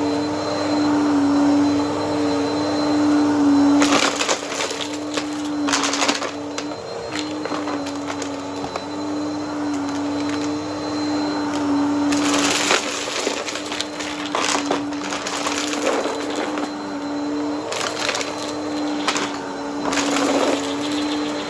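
Upright vacuum cleaner running with a steady motor hum while its brushroll crunches up dry debris, in several crackling spells of a few seconds each.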